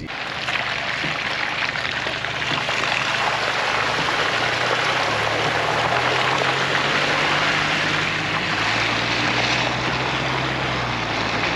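Chevrolet Colorado ZR2 Bison pickup driving slowly on a wet gravel road: steady tyre and road noise over a low engine drone that rises slightly about halfway through.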